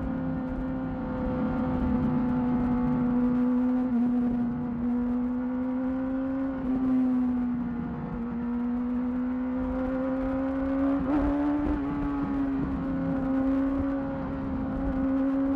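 2008 Yamaha R6 inline-four with a Termignoni exhaust, running under way at fairly steady high revs. The pitch rises and falls gently with the throttle, with a short break about eleven seconds in.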